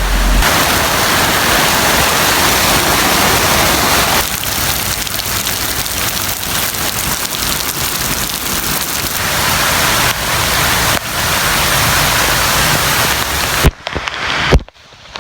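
Heavy rain pouring down steadily, a dense hiss that eases a little for a few seconds in the middle. The sound drops out abruptly for a moment near the end.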